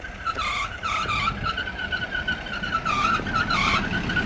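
A shrill, high-pitched whine that holds steady and swoops down and back up several times, over a low rumble.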